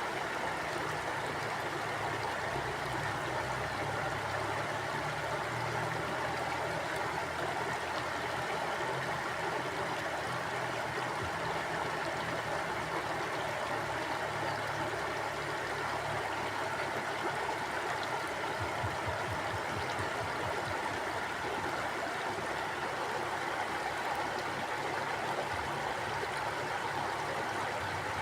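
Mountain stream flowing steadily: a continuous, even rush of water.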